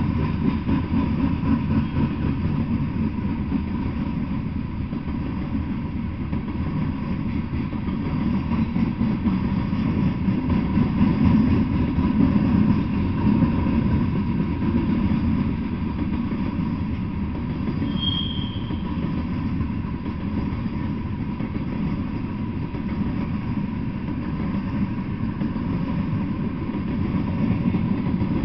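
Freight train cars rolling past, a steady rumble of steel wheels on the rails, with one brief high-pitched wheel squeal about two-thirds of the way through.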